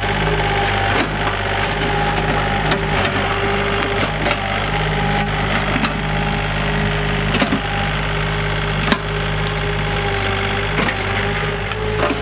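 Bonfire crackling, with irregular sharp pops and snaps from the burning wood. A steady low hum runs underneath.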